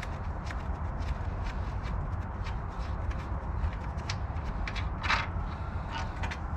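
Irregular clicks and light taps of hand tools working on car parts during disassembly, over a steady low rumble.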